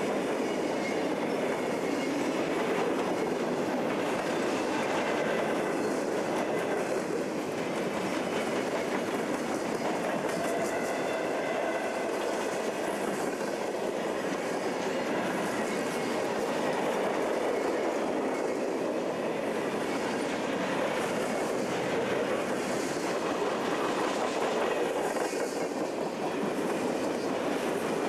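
Freight train cars rolling steadily past close by: the continuous clatter and rumble of steel wheels running over the rails.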